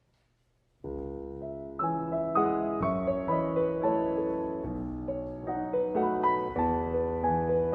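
Piano starting a piece about a second in, with a low held chord and then a gentle melody of single notes moving over it.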